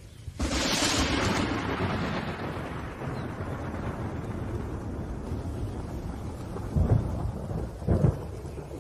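Thunderstorm: a sharp thunderclap cracks about half a second in and rumbles away over several seconds, over steady rain. Two shorter, deep thunder booms come near the end.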